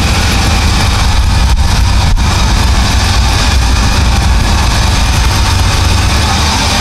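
V12 LS engine running steadily, loud with a deep low exhaust drone.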